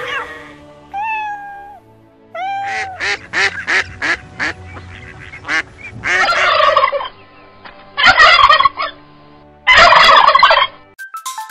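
Farm animal calls cut one after another over quiet background music: a sheep's bleat trailing off, then mallard ducks quacking, then a white domestic turkey gobbling in loud bursts. A short ringtone-like jingle starts near the end.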